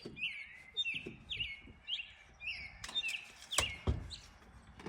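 A small songbird chirping over and over, short falling chirps about twice a second. Two sharp knocks come about three seconds in, the second the loudest, followed by a low thud.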